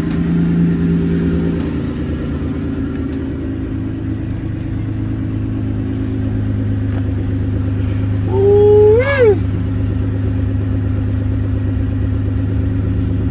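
Car engine idling steadily. About eight seconds in comes a short, high voice-like cry that rises and then falls.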